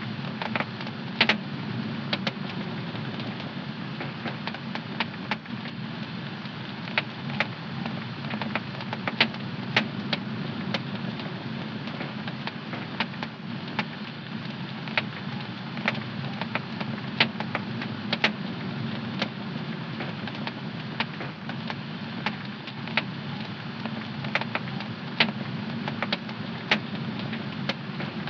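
Wood fire burning in a home fireplace, a steady low rushing hiss of the flames with frequent irregular sharp crackles and pops, one to three a second.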